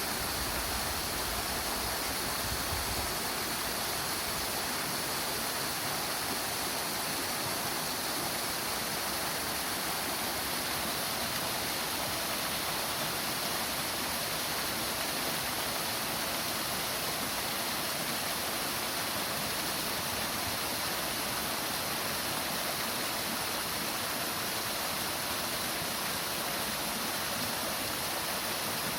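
Waterfall pouring steadily, a constant rush of falling water. A low rumble underneath dies away in the first few seconds.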